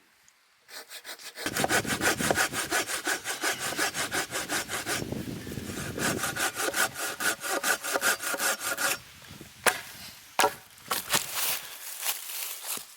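Hand saw cutting through wood in quick, even back-and-forth strokes. After the sawing stops, a few sharp cracks and knocks follow.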